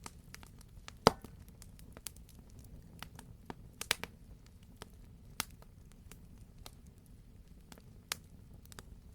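Wood fire burning in a fireplace: irregular crackles and sharp pops over a low, steady rumble of flame. One loud pop comes about a second in, and there is a quick cluster of pops near the middle.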